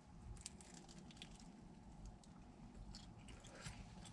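Faint close-up chewing of a mouthful of bacon-wrapped deep-dish pizza, with irregular small mouth clicks and crunches.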